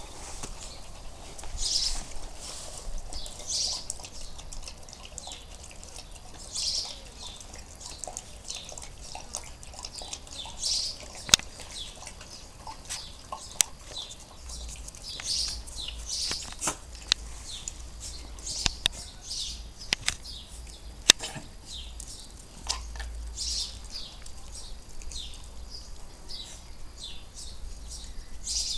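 Small birds chirping in short, scattered high calls, with a few sharp clicks.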